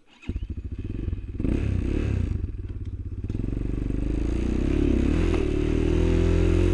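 A small vehicle engine starts up about a third of a second in and keeps running, revved up in steps and getting louder, its pitch wavering around the middle, with some clatter.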